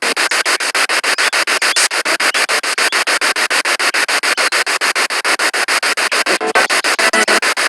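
Spirit box radio sweeping through stations: static chopped into about nine short pulses a second, with brief snatches of broadcast sound about six and a half seconds in.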